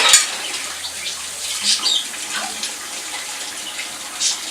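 Water running steadily from a kitchen tap into a sink, with a sharp clink of a dish right at the start and a few lighter clinks later.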